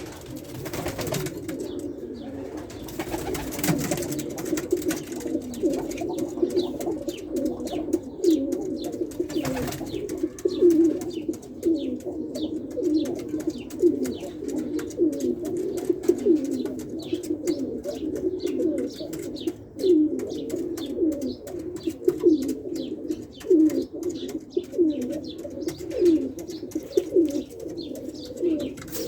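Several domestic pigeons cooing continuously, their low coos overlapping, with many short sharp clicks and taps mixed in.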